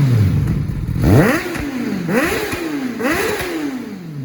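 Kawasaki ZX-10R's inline-four engine with an aftermarket SC-Project exhaust being revved, its throttle blipped three times about a second apart, each rev rising quickly and dying back down.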